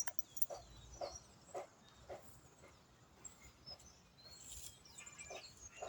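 Faint bird chirps outdoors, with a run of soft low thuds or notes about twice a second through the first half.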